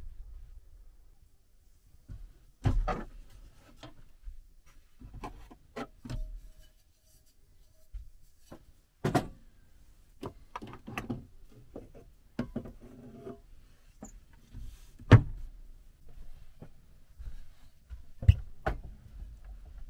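Irregular knocks, clicks and dull thuds, as of objects being handled and set down in a small room, with gaps of quiet between them and a few sharper, louder knocks.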